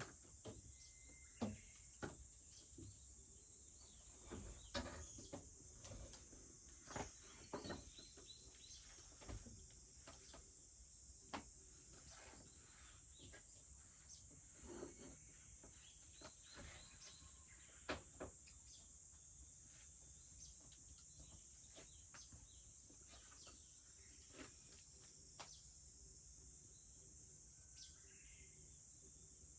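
Wood fire crackling with irregular sharp snaps and pops, over a steady high drone of summer insects.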